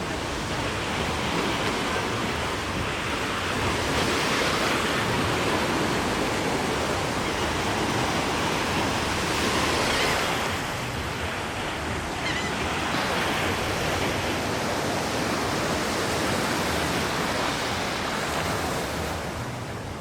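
Surf washing onto a sandy beach: a steady rush of waves that swells and eases.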